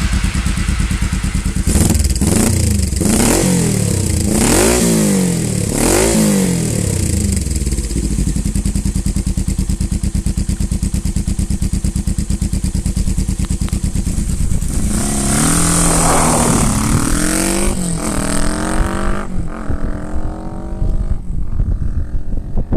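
Suzuki GS450 parallel-twin engine running through a custom-built exhaust: revved in several quick blips, settling to a steady idle, then about fifteen seconds in pulling away with the pitch climbing again and again through the gears, fading toward the end.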